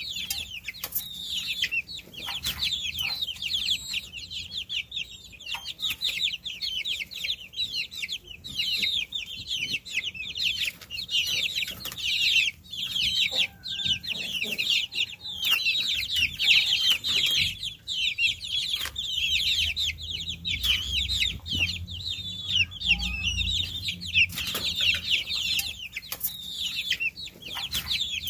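A brood of baby chicks peeping continuously, many high chirps overlapping. A low rumble comes in from about two-thirds of the way through.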